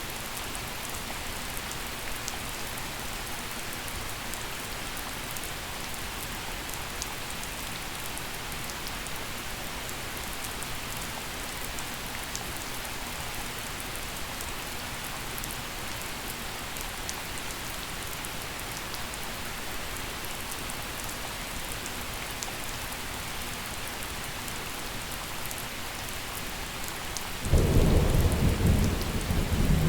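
Gentle steady rain falling, with scattered close raindrop ticks. Near the end a loud low thunder rumble breaks in suddenly and keeps rolling.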